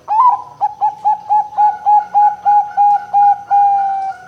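Zebra dove (perkutut) singing: an opening note, then a quick, even run of about a dozen short coos, ending in one long held coo that sinks slightly in pitch.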